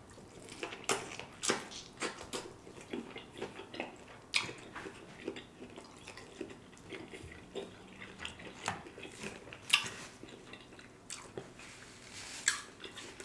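Chewing and mouth sounds of a man eating a bite of lobster tail meat, with a run of irregular sharp clicks and smacks.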